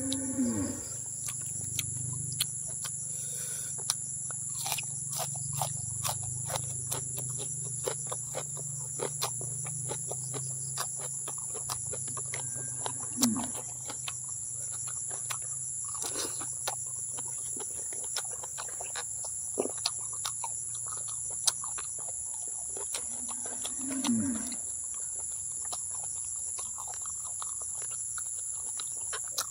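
Close-up chewing and wet mouth clicks of someone eating chewy boiled cow skin dipped in chili sauce, with three short low grunts spread through. A steady high-pitched insect drone runs underneath.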